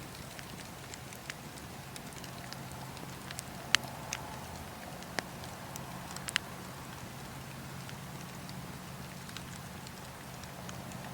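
Wood fire burning in a fireplace, a steady hiss with scattered sharp crackles and pops, a few louder pops in the middle.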